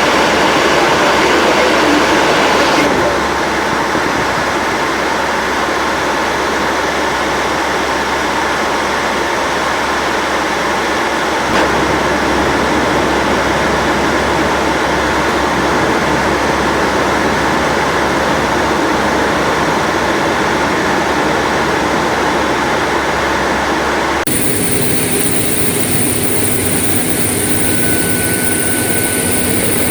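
Steady, loud rushing noise of a Boeing 737NG parked on the ground, changing abruptly a few times. In the last few seconds it becomes a steadier hum with thin, high, constant tones over it.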